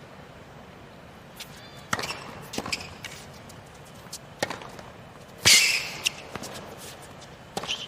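Tennis rally: sharp racket-on-ball hits about a second or more apart, the loudest about five and a half seconds in, with a brief sneaker squeak on the court under two seconds in, over a hushed stadium.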